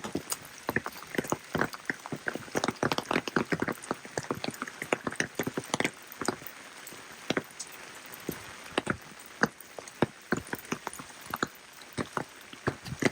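Rain: many irregular, sharp drops striking close by over a light steady hiss, thicker in the first half and sparser for a moment in the middle.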